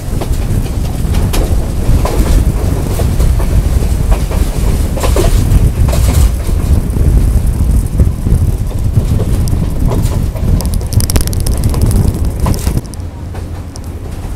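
Sri Lanka Railways passenger train running along the track, heard from the carriage: a steady heavy rumble with the wheels clacking over rail joints. It gets quieter about a second before the end.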